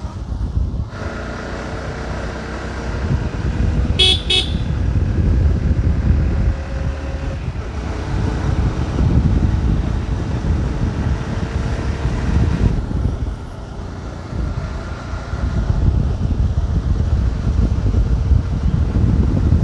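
Motorcycle riding along with a steady low rumble, and a short vehicle horn toot about four seconds in.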